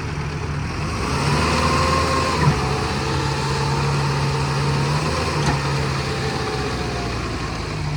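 A tractor's diesel engine runs hard under load, its note strengthening about a second in and wavering a little, as it strains to pull a loaded trolley whose jammed wheel won't turn. There is a short knock about two and a half seconds in.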